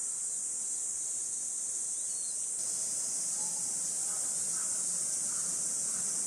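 Insect chorus: a steady, high-pitched continuous buzz that runs unbroken, with a slight shift partway through.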